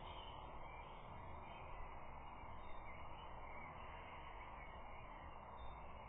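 Outdoor ambience: a steady hiss of wind and open-air noise, with songbirds faintly chirping throughout.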